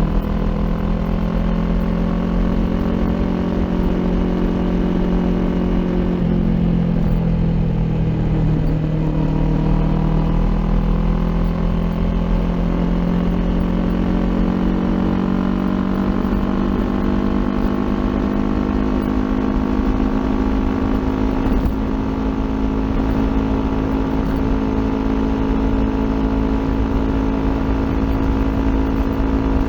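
Kawasaki Ninja 400 parallel-twin engine running through an Akrapovic aftermarket exhaust while riding. The engine note drops about six seconds in, bottoms out a couple of seconds later, then climbs slowly and steadily for the rest of the time.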